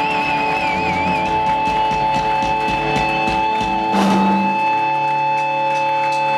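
Live punk rock band playing: electric guitars holding ringing notes over drum and cymbal hits, with a wavering high guitar note during the first second or so.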